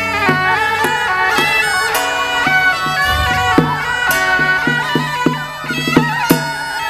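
Chinese temple ritual music: a suona (double-reed shawm) playing a stepping melody over sharp percussion strokes.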